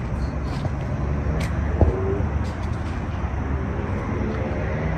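Steady rumble of road traffic passing, with one short sharp knock about two seconds in.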